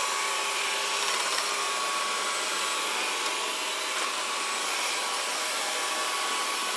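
Xiaomi Mijia robot vacuum cleaner running as it vacuums the floor: a steady whir of its suction fan, with a faint steady hum through it.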